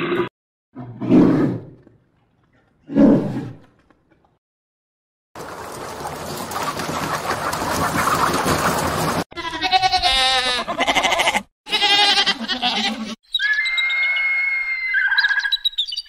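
A run of different animal calls cut together, each starting and stopping abruptly. First come two short, low calls. After a pause there are a few seconds of hiss, then two bursts of wavering, bleat-like calls. A bird calls with clear whistled notes near the end.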